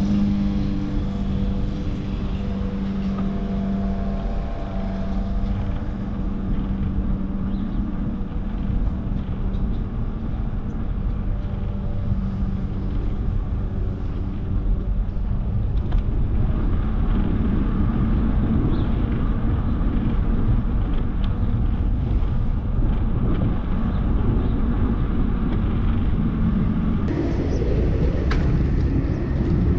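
Road traffic heard from a moving bicycle: a motor vehicle's engine hums steadily for the first half, then a louder, even noise of wind and tyres takes over.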